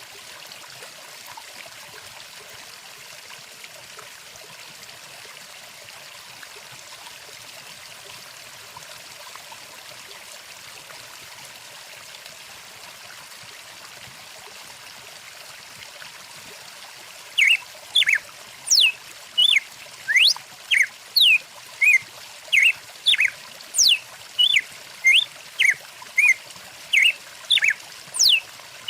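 Stream water running steadily. A little past halfway, a songbird starts a long series of short, sharp chirps, about two a second, louder than the water.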